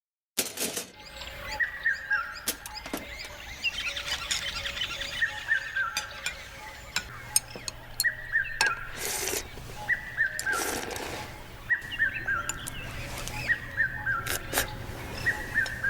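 A bird singing over and over, each phrase a quick run of falling notes, with scattered sharp clicks and two brief rushing noises around the middle.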